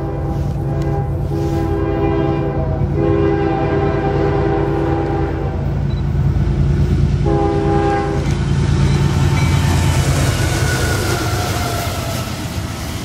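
Diesel freight locomotive's air horn sounding long blasts as the train approaches, then one shorter blast about seven seconds in, over the steady drone of the diesel engines. From about eight seconds in the double-stack intermodal cars roll past with a loud rumble and clatter of wheels on rail and a few thin squeals.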